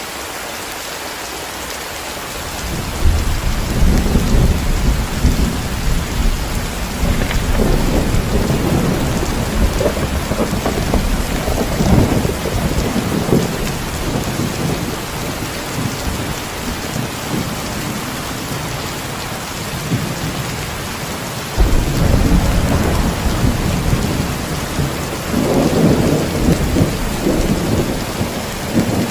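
Steady heavy rain, with thunder breaking in about three seconds in and rumbling on. A second sudden crack of thunder comes about two-thirds of the way through and rolls into more rumbling.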